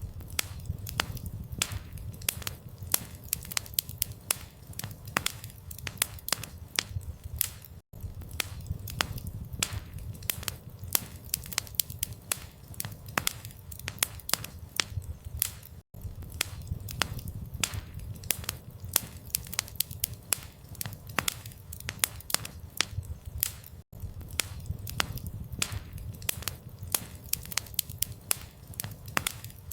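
Campfire crackling and popping continuously over a low rumble of the flames, with a brief dropout about every eight seconds where the recording loops.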